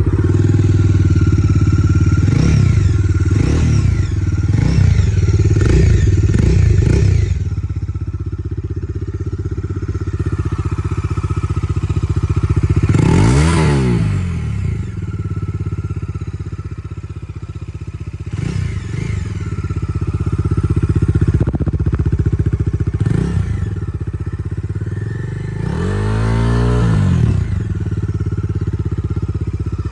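Bajaj Dominar 250's single-cylinder engine idling and being revved through the exhaust. It gives a quick run of about five throttle blips at the start, then single, sharper revs a few seconds apart, and a longer rev near the end.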